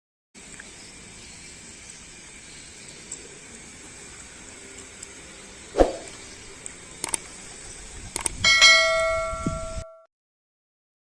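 Steady hiss with a few sharp knocks, then about eight and a half seconds in a metal object is struck and rings like a bell, holding several clear tones for about a second before the sound cuts off abruptly.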